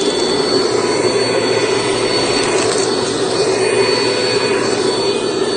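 Bissell vacuum cleaner running steadily, sucking up dust from the floor. Its suction is restored after a clogged hose was cleared, and it no longer spits dirt back out.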